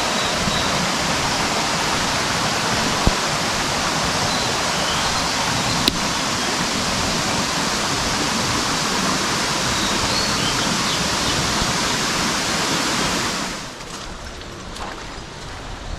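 Mountain stream rushing steadily, with a few faint high chirps above it. About 13.5 s in, the rushing cuts off to a quieter background with a few light clicks.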